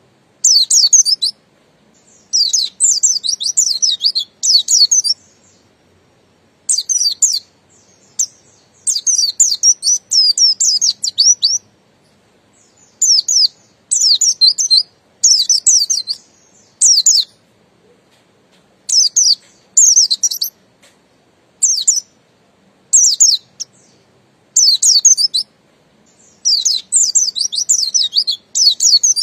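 White-eye (pleci buxtoni) singing in rapid, high twittering phrases of half a second to two seconds, repeated with short pauses between them.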